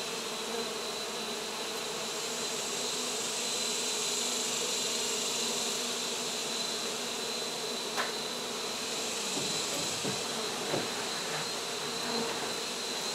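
A honey bee colony buzzing in a steady, dense hum, with a few faint clicks partway through.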